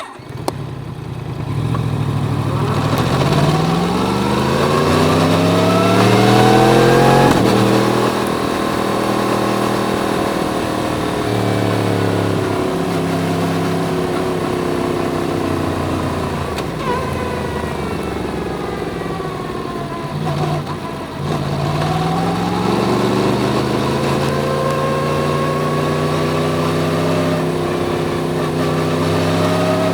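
Yamaha MT-10's crossplane inline-four engine under way, heard from the bike. It accelerates with a rising pitch for about five seconds, drops sharply at an upshift about seven seconds in, then runs steadily. It eases off around twenty seconds in and pulls up again.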